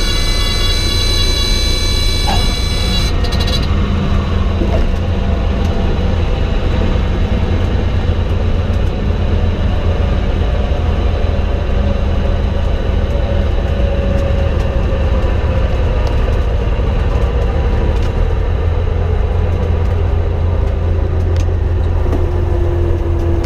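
Cessna 182 engine and propeller drone, steady and loud, heard in the cabin. A shrill tone with many overtones sounds over it and stops about three seconds in. In the second half a fainter tone slides slowly down in pitch.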